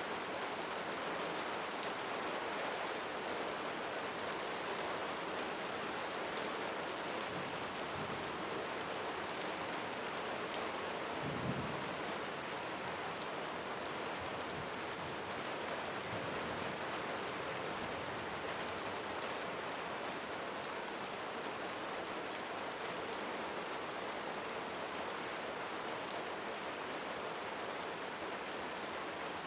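Steady rain pattering on leaves, an even hiss dotted with fine drop ticks, with one brief low rumble partway through.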